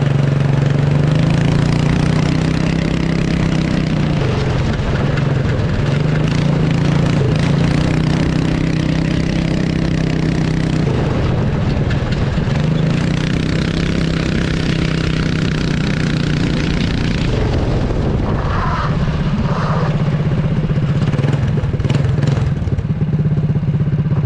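Cyclekart's small engine running loud through an open exhaust pipe with no muffler. Its note drops and climbs back several times as the revs fall and rise.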